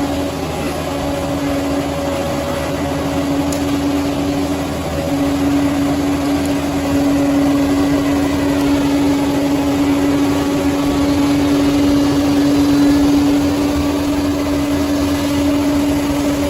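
Bulldozer diesel engine running steadily, with a constant whining tone over the engine noise; it gets a little louder about seven seconds in.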